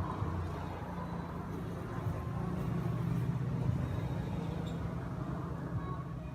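Steady low rumble of a motor vehicle running, swelling slightly in the middle.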